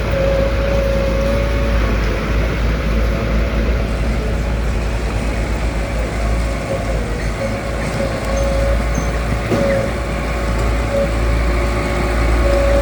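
Diesel engine of heavy road-construction machinery running steadily, with a deep rumble and a thin whine that comes and goes.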